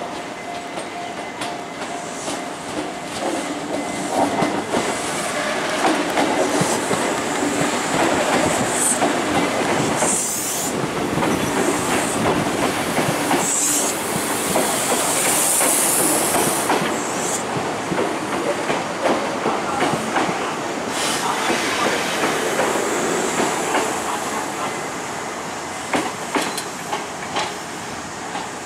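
Kintetsu 6200-series electric commuter train running into the station over the points and along the platform, its wheels clicking over rail joints. Its noise swells as it passes close, with several short high-pitched wheel squeals midway, then eases off as it draws away down the platform.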